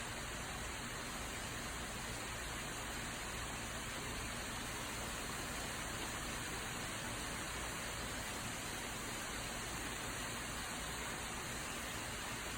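Steady rain shower falling, an even hiss of rain without pauses or single drops standing out.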